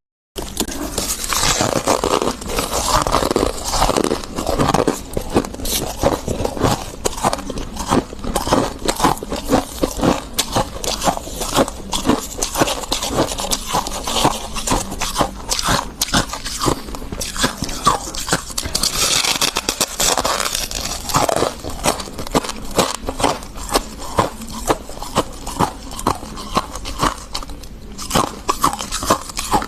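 Freezer frost crunching close to the microphone as it is bitten and chewed: a dense, continuous run of crisp crunches and crackles.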